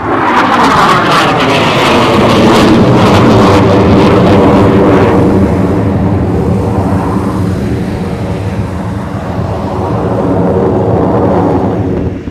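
Northrop F-5 Tiger III fighter jet passing overhead, its twin General Electric J85 turbojets giving a loud roar. A sweep of tones falls in pitch over the first few seconds as it goes by, then the roar holds steady until it cuts off sharply at the end.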